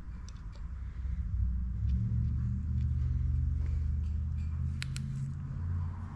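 Low, steady engine-like rumble that gets louder about a second in, with a few light metallic clicks near the five-second mark.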